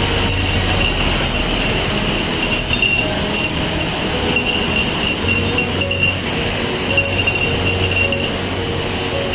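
Steady, loud rush of a large waterfall.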